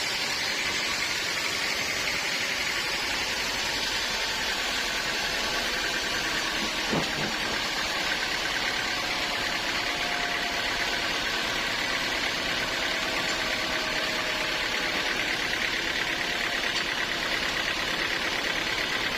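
An engine running steadily, with one short click about seven seconds in.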